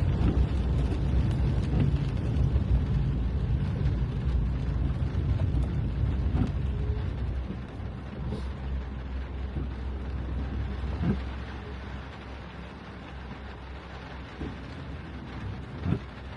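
Steady low rumble of a car driving on wet roads, heard from inside, easing off about halfway through, with a couple of faint knocks.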